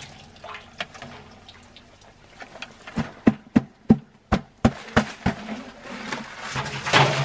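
Maple sap with chunks of ice being handled and poured: a run of about eight sharp knocks, roughly three a second, in the middle, then a splashy rush of liquid near the end.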